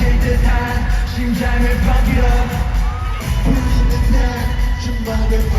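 Loud K-pop concert music over an arena sound system, with a heavy bass line and melodic sung lines, heard from the audience.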